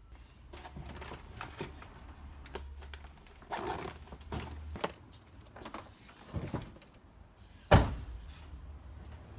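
Scattered knocks and clatter of fishing gear being handled and loaded, with one loud thunk about three-quarters of the way through.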